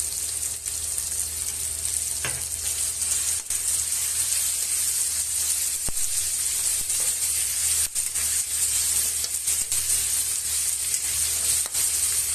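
Pork, garlic, onion, tomato and shrimp paste sizzling steadily in hot oil in a metal wok as it is stirred with a spatula. A few sharp clicks of the spatula against the pan are scattered through.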